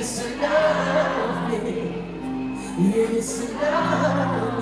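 Live band music with a singer's voice over it.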